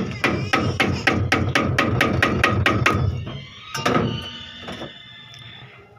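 Rapid hammer-like knocking on a part of a washing machine under repair, about four blows a second for three seconds, then a single knock about a second later.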